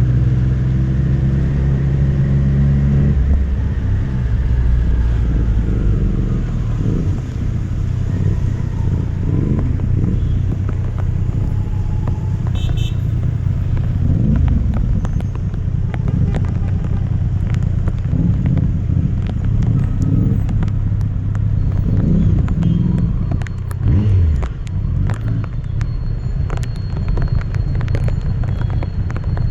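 Triumph Street Triple RS inline-triple engine on the move: a steady note for the first few seconds, then the revs rise and fall again and again under a constant rush of wind and road noise. Scattered sharp ticks come through in the second half.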